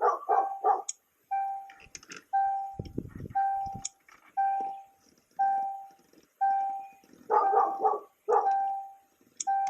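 Vehicle warning chime beeping evenly about once a second, the same single mid-pitched tone each time, with the ignition switched on. A few short, rougher sounds break in near the start and again about three-quarters of the way through.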